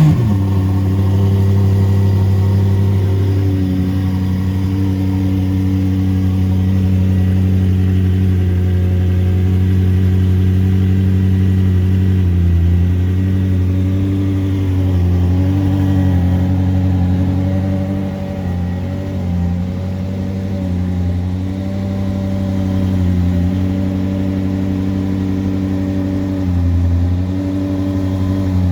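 McLaren 570S twin-turbo V8 through a straight-piped exhaust, just fired up on a cold start: a brief flare, then a steady high cold idle whose pitch steps down slightly a few times.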